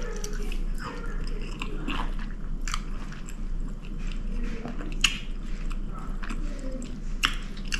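A person chewing a mouthful of chicken Alfredo pasta close to the microphone, with many small wet clicks scattered throughout.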